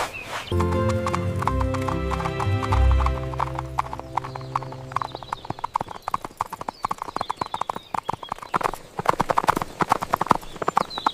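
Clip-clop of horse hooves trotting, a fast run of sharp knocks through the whole stretch, with music holding low chords over the first few seconds.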